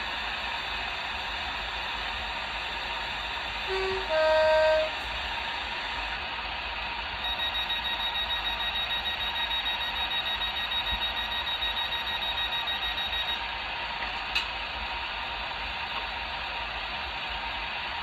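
Hornby OO gauge Class 800 model's DCC sound decoder playing through its small onboard speaker over a steady hiss: a short two-tone horn, low then high, about four seconds in. From about seven to thirteen seconds a rapid, high electronic beeping follows, then a single click.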